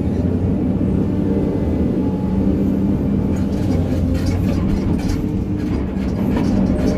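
Hydraulic excavator's diesel engine running steadily, with scattered clicks and knocks from about three seconds in.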